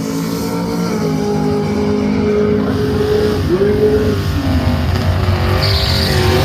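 Drag race car's engine held at steady high revs, dipping briefly and climbing back about three and a half seconds in, then wavering near the end.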